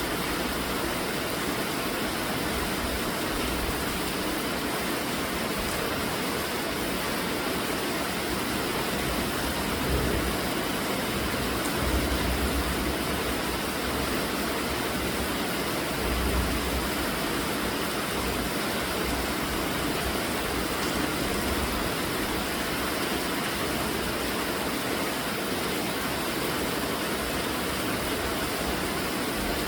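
Steady heavy rainfall, an even hiss with no pauses. A few brief low rumbles rise under it about ten, twelve and sixteen seconds in.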